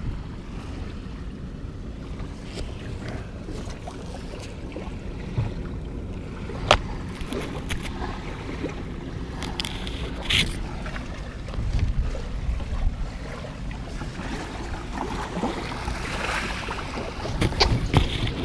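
Kayak out on the water, with wind rumbling on the microphone over the sound of the water. A few sharp knocks come about 7 and 10 seconds in, and a busier, louder patch of knocks and splashing comes near the end.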